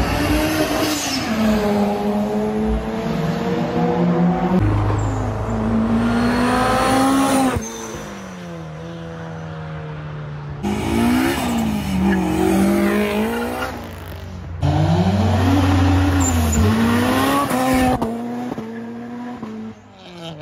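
Tuned Japanese performance car engines revving and accelerating, their pitch climbing and dropping again and again, in several short clips that cut abruptly from one to the next.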